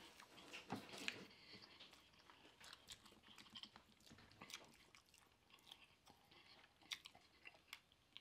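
Faint chewing and crunching of crispy fried catfish, a scatter of short mouth clicks and crackles, a little stronger about a second in.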